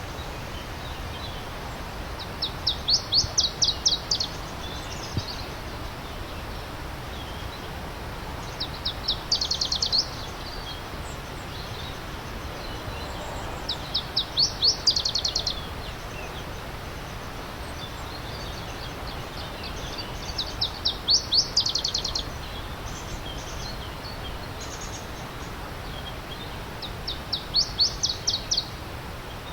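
A songbird repeating a short song of rapid, high, sweeping notes, five times about six seconds apart, over the steady rush of a stream.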